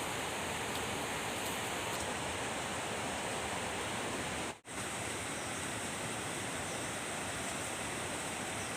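A steady, even rushing noise that drops out for a split second about halfway through.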